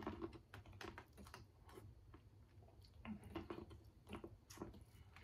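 Faint mouth sounds of eating boiled corn on the cob: teeth biting through the kernels and chewing, heard as scattered small crunchy clicks.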